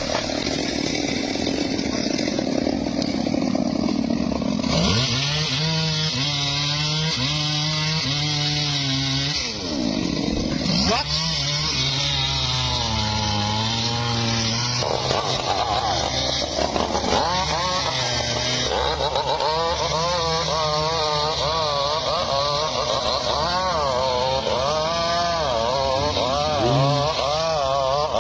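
Chainsaw running and cutting wood, its engine pitch wavering up and down as the chain bites.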